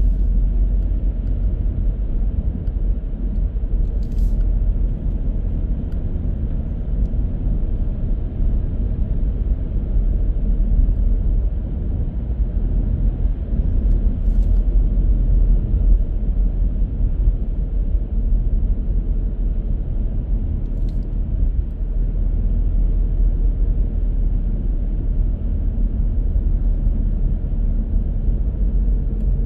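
Steady low rumble of a car driving: road and engine noise with no change in pace, and a few faint clicks.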